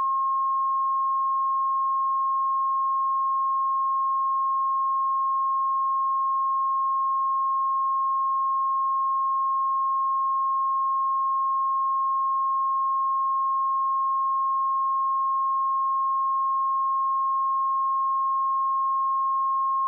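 A steady, continuous 1074 Hz sine-wave test tone: a single pure pitch held at constant level.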